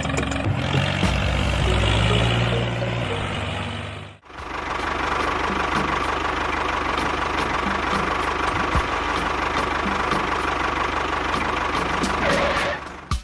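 The motor of a model construction vehicle running steadily. It cuts out briefly about four seconds in, then runs on with a steady whine.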